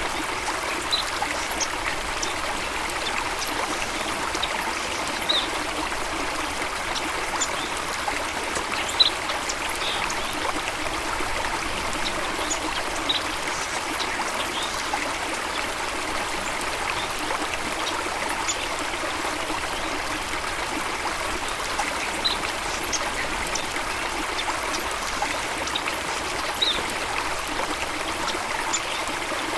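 Water in a stream running and trickling steadily, with short high-pitched notes scattered every few seconds.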